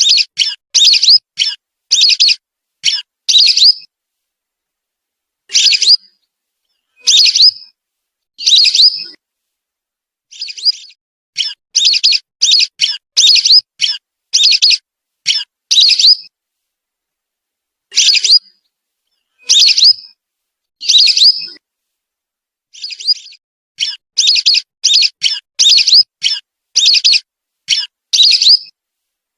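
Whistling duck (belibis) calling: short, shrill whistled notes in quick runs of several, alternating with single notes spaced about a second and a half apart.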